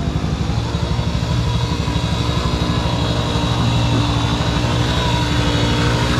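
Dirt bike engine running at a steady pitch, getting a little louder about four seconds in.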